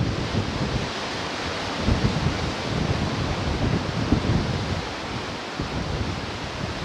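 Ocean surf washing steadily onto the shore, with wind gusting over the microphone in low rumbles.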